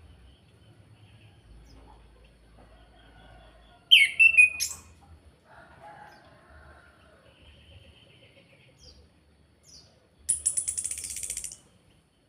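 Chestnut-capped thrush (anis kembang) calling: a sharp call with a falling note about four seconds in, then near the end a rapid, dry rattling trill ("kretekan") lasting just over a second, with faint softer notes in between.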